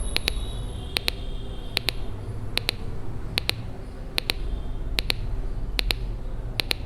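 Small speaker driven by a two-transistor (NPN BC547 / PNP BC557) capacitor oscillator, ticking in pairs of sharp clicks about every 0.8 seconds. It is oscillating because both rain-alarm probes sit in water, which conducts and completes the circuit.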